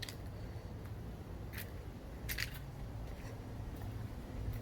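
A few short, scratchy rustles, three of them a second or so apart, over a low, steady rumble.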